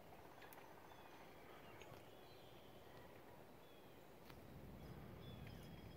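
Near silence with faint songbird chirps and a few soft ticks.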